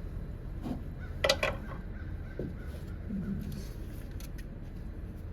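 A crow cawing twice in quick succession about a second in, over a steady low background hum.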